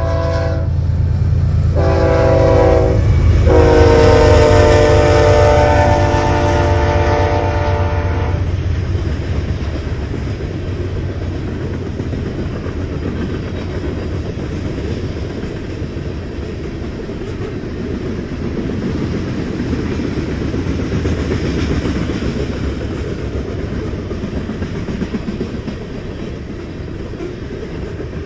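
Freight locomotive's horn sounding for a grade crossing: the end of one blast, a short blast about two seconds in, and a long blast that stops about eight seconds in, over the locomotive's low rumble. After that, the steady rumble and clatter of covered hopper cars rolling past.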